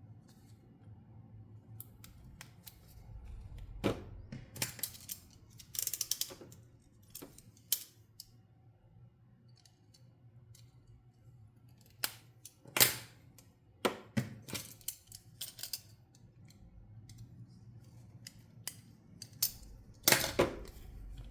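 Toy packaging of plastic and cardboard being opened and handled: irregular clicks, snips and short crinkling rustles, with the busiest handling about four, twelve and twenty seconds in.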